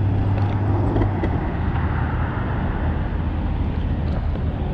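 Steady low rumble with a constant hum underneath, the wind and road noise of a moving vehicle.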